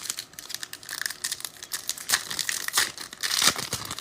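Foil trading-card pack wrapper crinkling and tearing as the pack is opened and handled.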